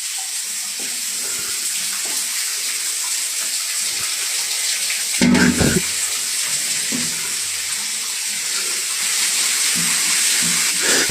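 Shower running, its spray a steady hiss, with a short loud thump or cry about five seconds in.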